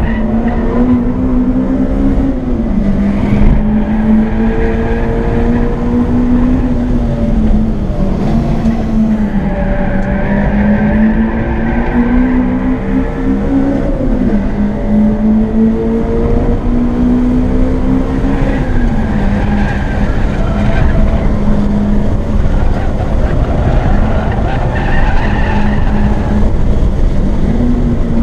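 Acura RSX's four-cylinder engine at full throttle on a racetrack, heard from inside the cabin. Its pitch climbs through each gear and drops sharply at each shift, about five times, with intermittent tyre squeal through the corners.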